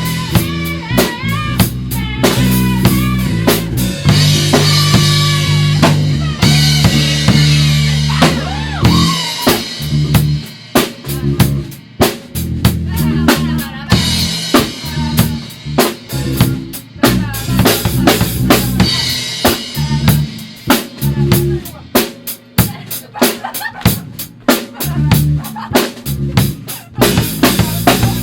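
Rock band playing live in rehearsal, with no vocals: busy drum kit (kick, snare and cymbals) under bass and guitar. Held low notes and bending guitar lines in the first nine seconds or so give way to choppier, stop-start playing.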